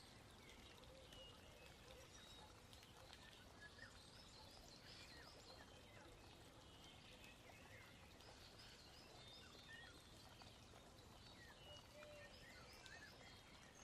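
Near silence, with faint birds chirping in the background throughout.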